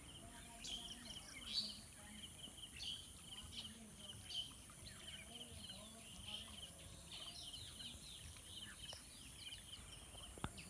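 Birds chirping and calling over a quiet rural background, with quick repeated high chirps throughout and a steady thin high-pitched tone beneath. A single sharp click sounds near the end.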